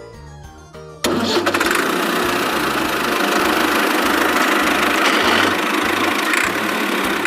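An engine sound starts abruptly about a second in and keeps running steadily and loudly over background music with a repeating bass line.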